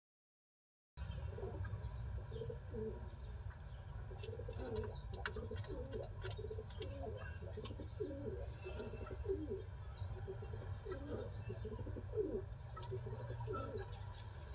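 Pigeons cooing over and over, low soft calls one after another, starting about a second in over a steady low rumble, with a few faint clicks.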